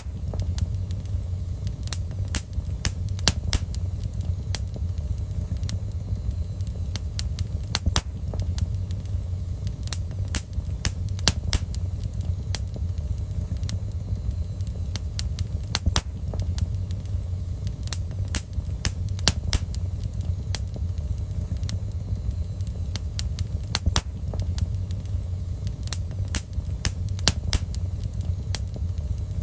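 Wood fire burning in a fireplace: a steady low rumble of the flames with frequent, irregular sharp crackles and pops of the burning wood.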